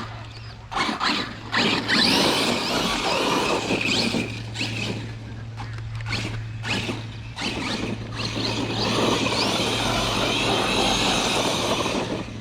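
Arrma Kraton 6S RC car's brushless motor whining in repeated bursts of throttle, the pitch rising and falling, as its tires spin on wet grass.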